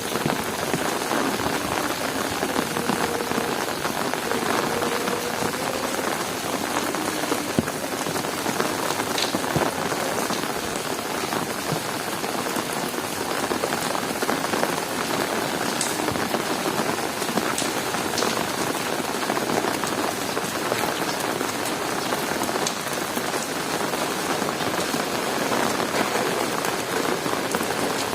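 Heavy rain falling steadily on hard surfaces: a dense, even hiss with scattered sharp ticks of individual drops.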